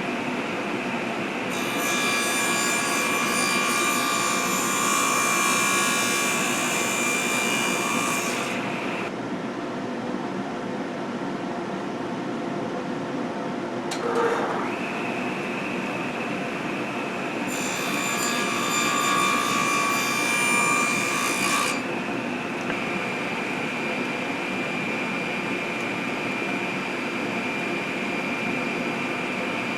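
Power saw running steadily, with two cuts through a small block of hardwood, each lasting a few seconds, the first near the start and the second past the middle, and a short knock between them.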